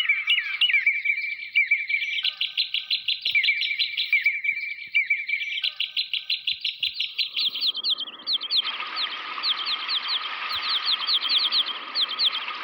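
Recorded bird chirps played back as an octapad intro patch: runs of rapid, evenly repeated chirps that stop and start, with a steady hiss joining under the chirping about eight seconds in.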